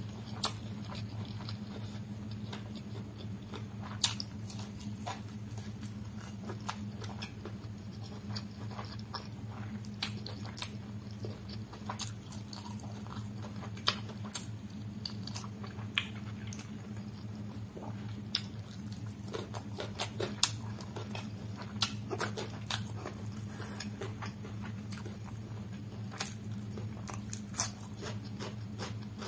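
Close-up chewing and wet mouth sounds of a man eating chicken curry and rice by hand, with sharp smacks and clicks scattered throughout. A steady low hum runs underneath.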